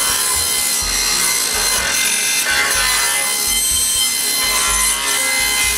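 Power saw ripping cedar boards lengthwise for window molding: a steady cutting noise under the even whine of the motor.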